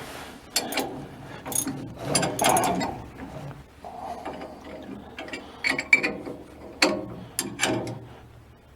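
Ratchet wrench clicking in short, irregular runs of strokes as the propeller shaft coupling is tightened down.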